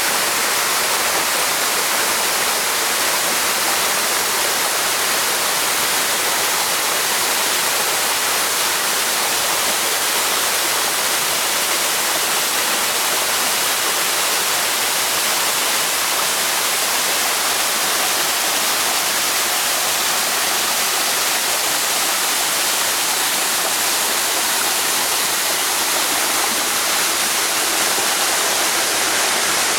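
Waterfall pouring steadily into its pool: a constant, hissing rush of falling water with no breaks.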